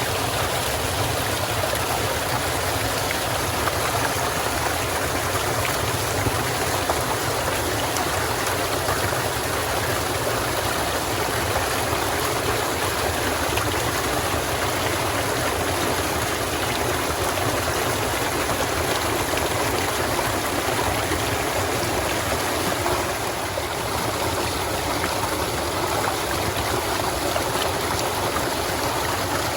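Stream water running steadily: a constant, even rush of flowing water.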